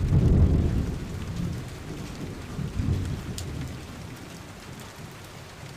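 Rain falling steadily with rolling thunder: a loud low rumble at the start, a smaller swell about three seconds in, then the thunder fades away under the rain.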